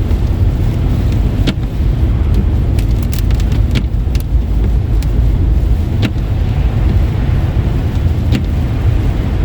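A car driving on a wet, slushy road: a steady low rumble of engine and tyres, with scattered sharp ticks.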